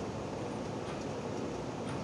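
Steady thunderstorm rain, an even rushing hiss with a few faint ticks of drops.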